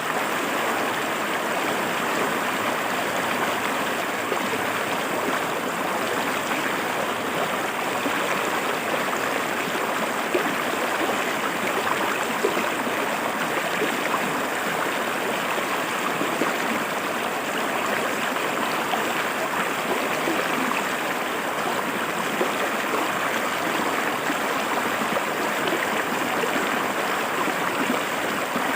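Clear river water flowing and splashing over rocks, an even, unbroken rush.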